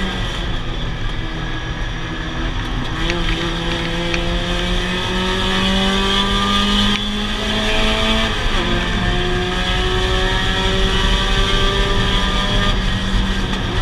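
Mazda Miata race car's four-cylinder engine heard from inside the caged cabin, pulling hard with its pitch climbing steadily. About seven seconds in, the level dips and the pitch drops as the driver changes gear, then it climbs again.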